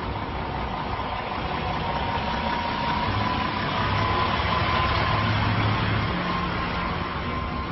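A motor vehicle engine running steadily, growing a little louder in the middle and easing off toward the end, with a thin whine that rises slightly in pitch.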